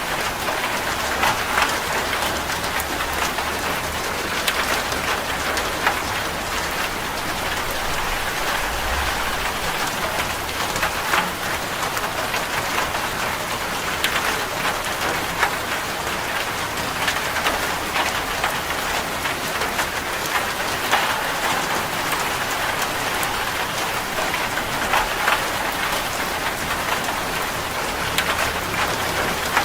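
Steady heavy rain drumming on a zinc roof, a dense even patter with frequent sharper drop hits standing out. A faint low rumble sits underneath for roughly the first third.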